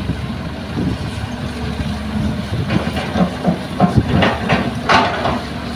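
Excavator working: a diesel engine runs steadily while a quick series of short clanks and scrapes comes from about halfway through, louder near the end.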